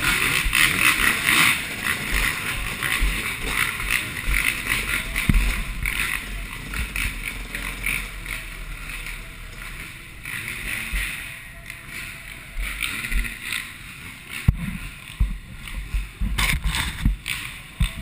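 Two-stroke motocross bikes racing around the track, a rough engine drone that fades gradually as they pull away, with wind buffeting the microphone.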